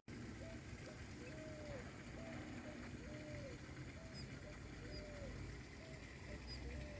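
A dove cooing in a steady repeated phrase, a short note then a longer rising-and-falling coo, about four times over. A few faint high chirps from another small bird come in after the middle.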